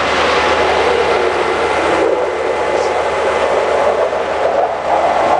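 Propane-fuelled 6.8-litre V10 of a school bus idling smoothly, under a loud, steady rushing noise of jet aircraft flying over.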